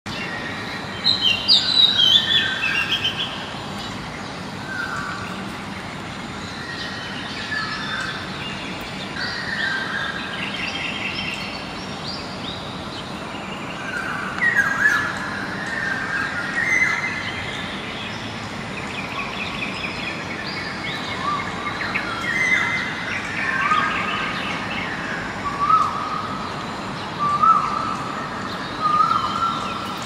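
Several songbirds singing and calling at once over a steady hiss. There is a burst of loud, high chirping about a second in, and in the second half a short rising whistle repeats every second or two.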